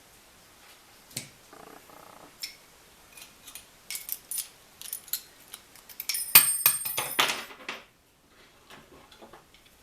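Metal parts and tools being handled: scattered clicks and clinks, then about six seconds in a louder burst of ringing metallic clatter lasting a second or two.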